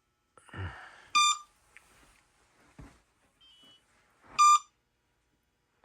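Short electronic alert beeps from RC helicopter radio gear left switched on for a while, a single high tone repeating about every three seconds, twice here. A brief rustle and thump of handling a little over half a second in.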